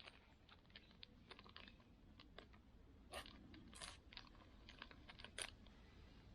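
Faint, irregular clicks and a few louder crinkles, about three seconds in, near four seconds and again near the end: a plastic food packet being handled.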